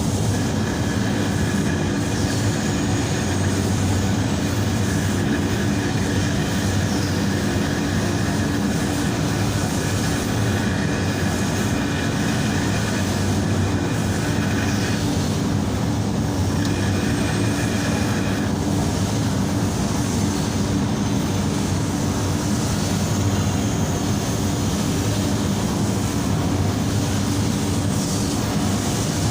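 Steady mechanical drone, even in level throughout, with a faint high whine that comes in about a second in, breaks off around fifteen seconds, and returns briefly.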